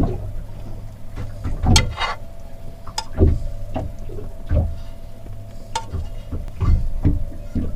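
Irregular short knocks and clicks of serving utensils against plates and a cooking pot while food is dished up, about one every second, over a steady low hum.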